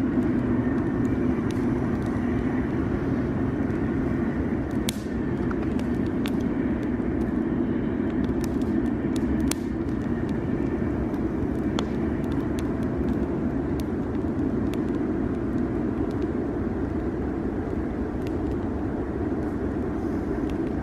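Steady low rumble of vehicle noise, with sharp pops and snaps from a crackling campfire scattered through it.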